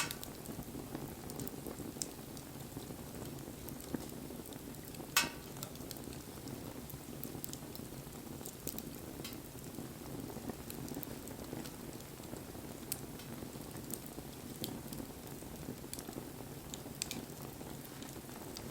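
Wood campfire burning: a steady low rush of flames with scattered sharp crackles and pops, the loudest about five seconds in.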